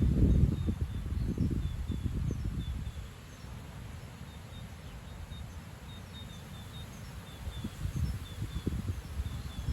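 Strong gusty wind blowing through tall trees and buffeting the microphone with low rumbling, heaviest in the first three seconds, easing, then building again near the end. Birds chirp faintly throughout.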